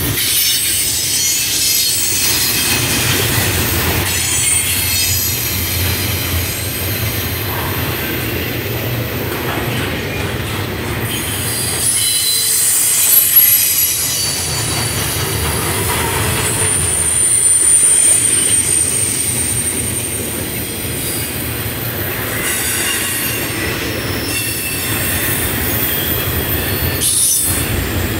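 CSX double-stack container train rolling past, its steel wheels squealing high-pitched on the rails over a steady low rumble of the passing cars. The squeal comes and goes, loudest around the middle.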